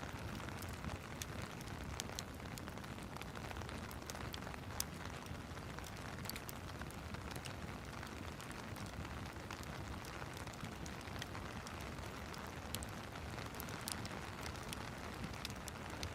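Steady hiss of rain mixed with a wood fire crackling in a fireplace: irregular small pops and snaps scattered over an even background rush.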